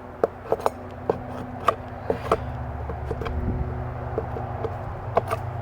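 Sharp knocks and clicks of a metal hive tool against the wooden parts of a beehive, several in quick succession, then a pause and two more near the end, over a low steady hum.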